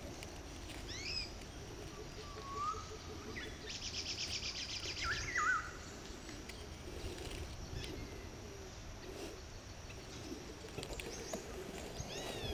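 Songbirds calling: short chirps that sweep in pitch, a rising whistled note, and a fast trill about four seconds in. Under them is a low, steady background rustle.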